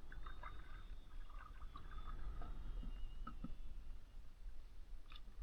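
Faint water drips and small ticks over a low wind rumble, with a faint thin high whistle that drifts slightly lower over the first few seconds.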